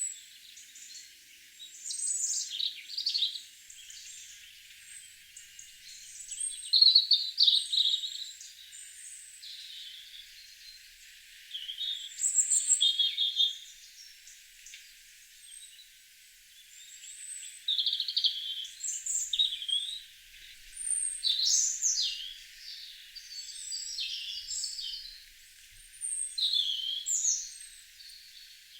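Garden birds singing: short chirping and warbling phrases, one after another every few seconds, with brief quiet gaps between them.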